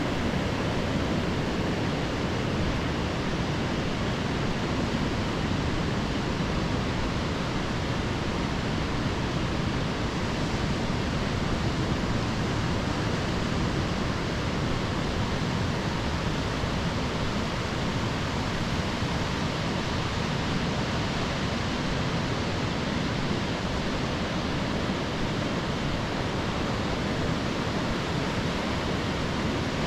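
Ocean surf breaking on a sandy beach, a steady, even rush of waves with no distinct swells standing out.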